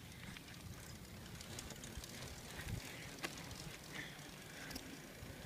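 Bicycle riding noise heard from a handheld phone: a steady low rumble of tyres and wind, with a few scattered clicks and rattles from the bike.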